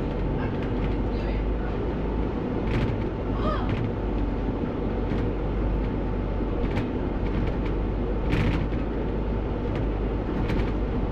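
A London bus running, heard from the driver's cab: a steady low rumble of diesel engine and road noise, with a few brief knocks and rattles.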